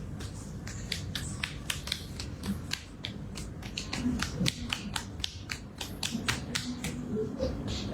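Light, irregular clicks and taps, several a second, like small hard objects being handled or tapped.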